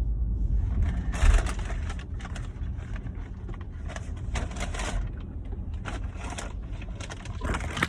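Steady low rumble of a car cabin, with irregular rustling noises over it.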